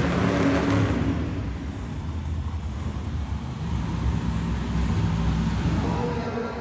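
Monster truck engine running with a low rumble, easing off from a loud rev just before and swelling a little again about five seconds in.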